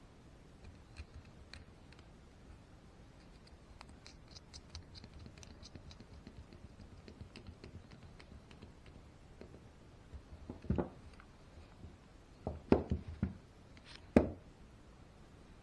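Hands handling small parts of a Traxxas E-Maxx RC truck's rear drivetrain during reassembly: light clicks and scratches for several seconds, then a handful of louder knocks near the end.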